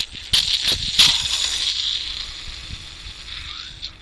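Failed engine roller pulley with a collapsed ball bearing, its balls loose inside, rattling as it is turned by hand: a few sharp clinks, then a gritty rattle that dies away over about three seconds. This rattle is the cause of the engine's knock.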